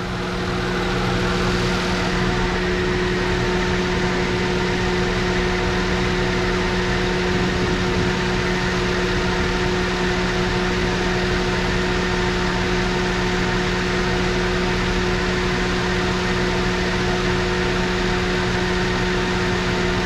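Lincoln MKZ's 3.5-litre V6 idling steadily with an even hum, after the misfire on this engine was traced to a wiring harness and the repair finished.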